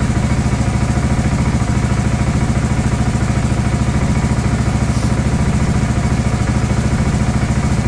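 Four-wheel-drive ATV engine idling steadily with an even exhaust pulse, freshly started on a cold day.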